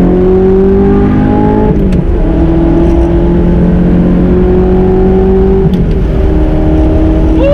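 Audi R8's V8 through a titanium Armytrix exhaust, pulling hard under throttle, heard from inside the car: the revs climb, break and drop back about two seconds in as a gear is changed, climb again, then drop once more near six seconds and run on steadier.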